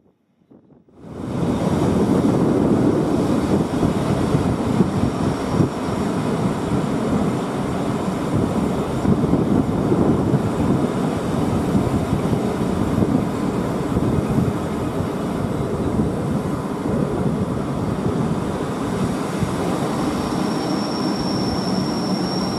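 Rhaetian Railway train running on its rails, heard from an open carriage window: a steady rumble of wheels on track with some wind on the microphone, starting about a second in. A thin, steady high squeal from the wheels comes in near the end as the train rounds a tight curve.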